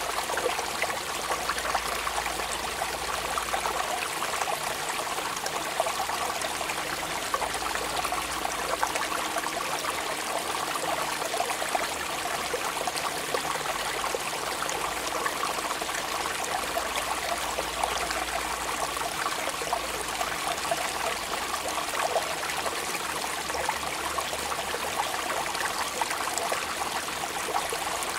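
Steady rain falling, an even, unbroken hiss of many fine drops.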